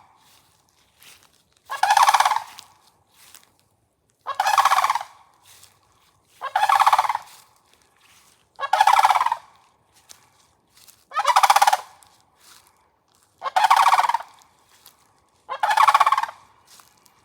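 Cranes calling noisily: seven loud calls of about a second each, repeating evenly every two seconds or so.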